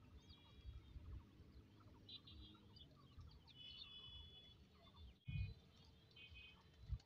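Small birds chirping faintly and repeatedly in short high calls, over a low rumble, with a brief louder low rumble a little over five seconds in.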